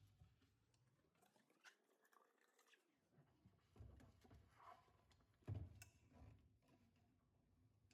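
Near silence: a few faint clicks and light knocks of household items being handled, the loudest about five and a half seconds in.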